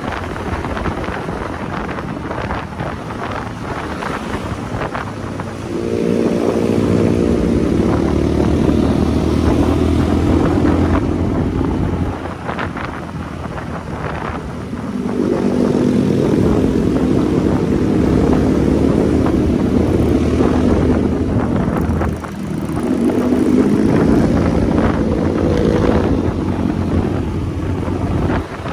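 Motorcycle engine under way with wind noise on the microphone. The engine note swells and rises three times, from about six, fifteen and twenty-three seconds in, each for several seconds, with quieter, wind-dominated stretches between.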